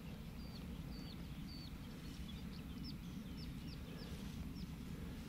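A small bird singing a series of short, high chirps, about two a second, over a steady low background rumble.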